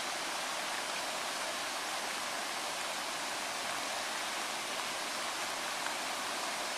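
Steady rushing hiss of water from flooding in heavy rain.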